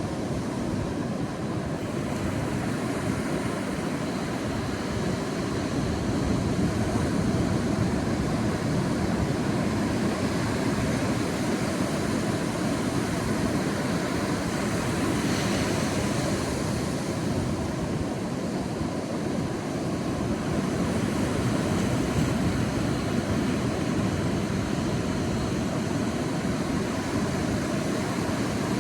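Sea waves washing on a beach in a steady rush of surf, with one wave building and spilling a little louder about halfway through.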